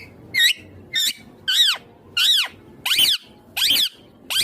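Indian ringneck parakeet giving a rapid series of short, high-pitched screeching calls, about seven in a row, each rising and then falling in pitch.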